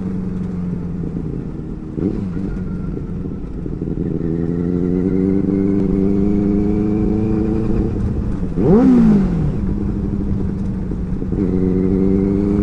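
Benelli 600i inline-four motorcycle engine running while riding, its pitch climbing slowly through the middle. About two-thirds of the way through there is a quick throttle blip that shoots up and falls straight back.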